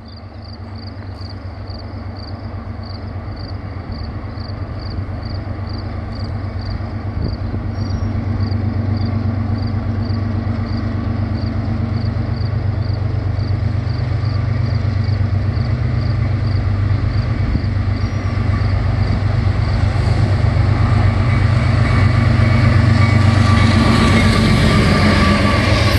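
Approaching train's diesel locomotives: a steady low engine drone that grows louder throughout, with wheel and rail noise building near the end as the train draws close. A faint high tone pulses about twice a second through most of it and fades out before the end.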